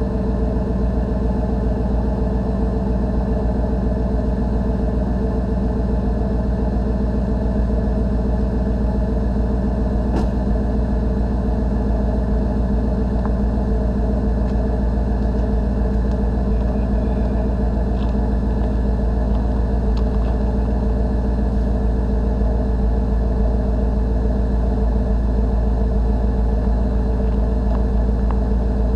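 1991 Chevy pickup engine idling steadily as it warms up after a cold start in 10-degree weather, with a few faint ticks.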